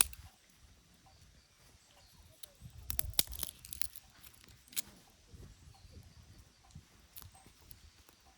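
Campfire crackling: scattered sharp pops, with a quick cluster of them about three seconds in.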